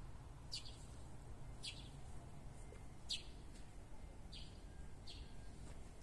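Faint bird chirps: a handful of short, high calls about a second apart over a quiet background hum.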